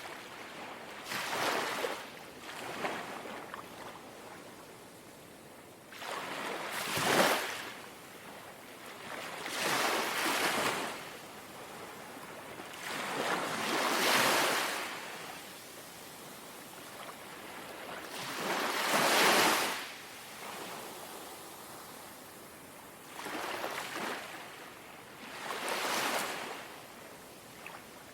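Small, gentle sea waves lapping on the shore. Each wash swells and fades, one after another every few seconds, and some come in louder than others.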